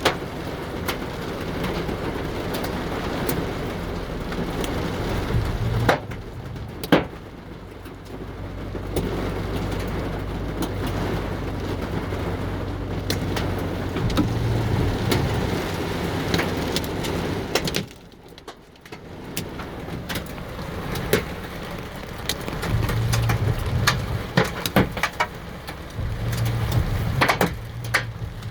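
Heavy rain with hailstones pelting hard surfaces: a steady rush of falling water full of sharp clacks from hail strikes, with a low rumble underneath. It eases briefly about two-thirds of the way through.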